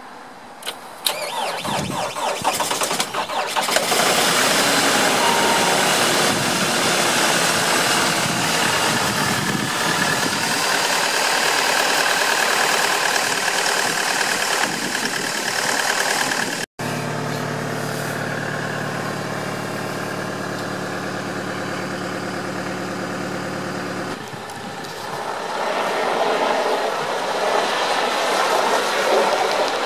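2018 Chevrolet Colorado's 2.8-litre Duramax four-cylinder turbodiesel cold-started at −26 °C: it cranks briefly and catches about three seconds in, then runs loudly at cold idle. After a brief break in the sound past the halfway point it idles evenly, growing louder again near the end.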